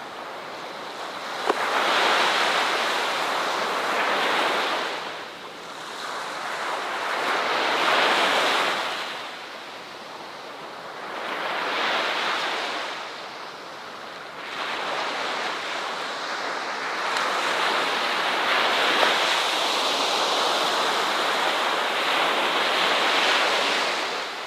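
Ocean surf washing onto a shore, swelling and falling back every few seconds, with a longer, sustained wash in the second half.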